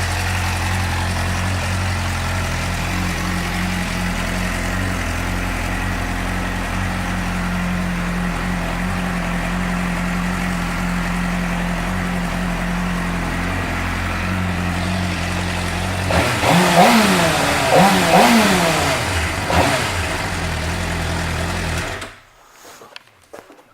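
2006 Suzuki GSX-R600's inline-four engine idling steadily. About two thirds of the way in it is revved a few quick times, then it settles back to idle and is switched off near the end.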